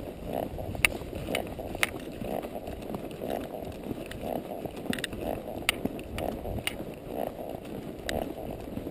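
A palomino Quarter Horse walking under a rider: a steady rhythm of footfalls, about two a second, with scattered sharp clicks.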